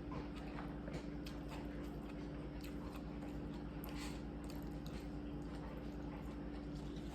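Close-up chewing and biting of food, with many small wet clicks and light crunches.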